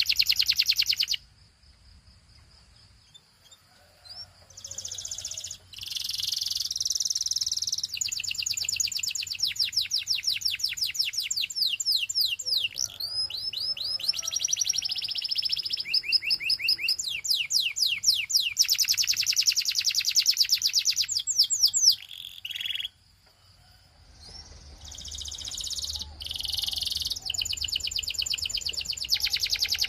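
Canary singing: long, rapid trills of repeated high notes, with rolls and chirpy phrases. The song pauses briefly about a second in and again about two-thirds of the way through.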